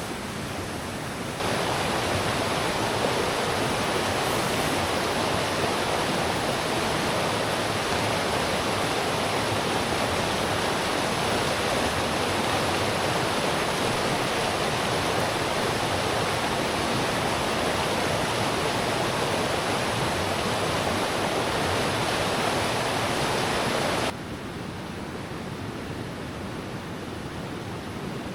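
Steady rush of flowing river water, jumping suddenly louder about a second and a half in and dropping back to a softer rush near the end.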